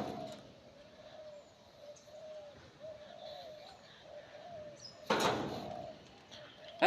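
A talking pet bird making soft, wavering cooing sounds, then one loud call about five seconds in.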